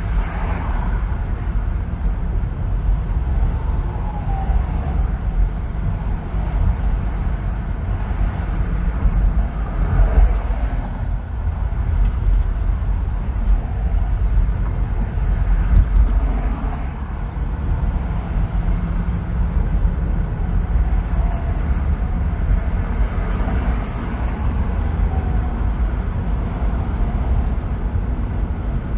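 Steady low rumble of road and tyre noise from a car driving on a freeway, swelling briefly now and then, with faint falling tones from other traffic.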